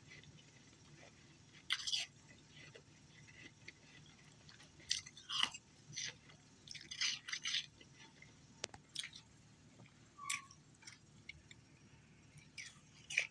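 Ice being chewed and crunched in the mouth, close to the microphone: irregular crisp crunches with short pauses between them.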